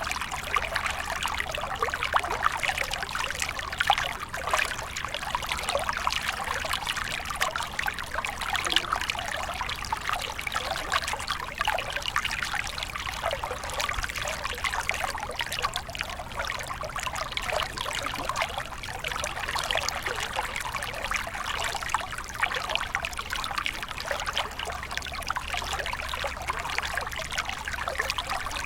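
A small stream flowing steadily, water trickling and splashing over stones.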